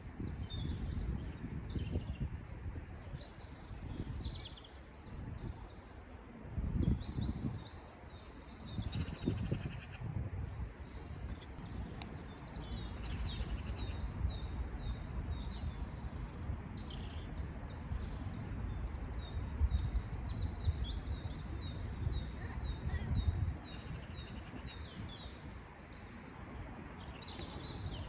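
Wild songbirds chirping and trilling repeatedly, short high calls throughout, over a low, uneven rumbling noise.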